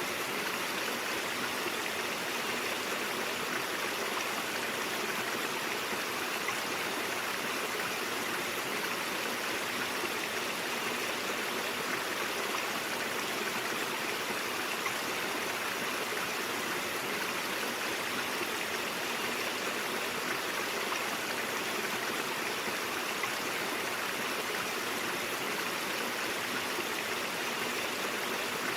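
A brook flowing, with a steady, unbroken rush of running water.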